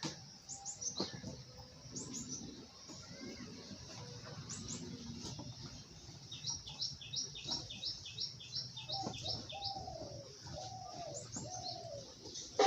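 Small birds chirping: scattered short, high chirps that drop in pitch, then a quick run of repeated high notes at about four a second. Near the end come a few lower calls that slide downward.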